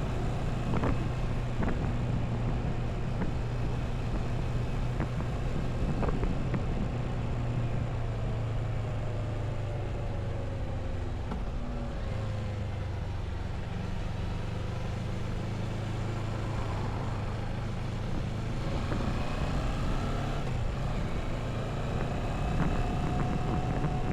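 Motorcycle engine running under way, revs easing off through the middle and picking up again near the end, over steady road and wind noise.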